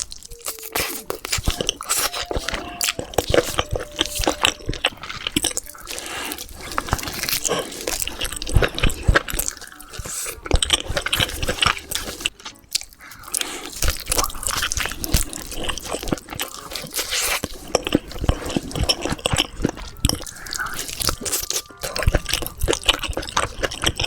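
Close-miked eating of spicy, cheesy, saucy chicken: a steady run of crunchy bites and wet, sticky chewing and smacking.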